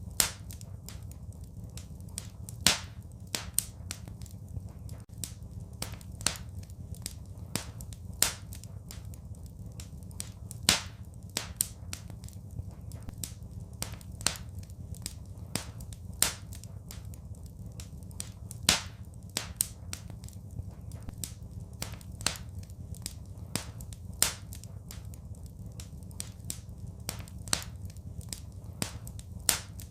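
Wood fire crackling in a fireplace: irregular snaps and pops, several of them louder sharp cracks, over a steady low rumble.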